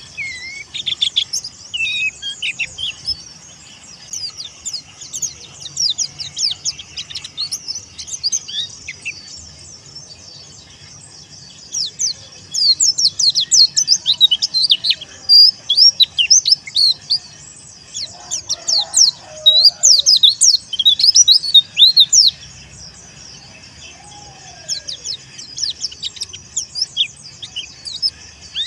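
Pleci dakun white-eye singing: a fast, chattering run of high, thin chirps and quick sweeping notes, sparse at first and then a dense, continuous burst for about ten seconds in the middle.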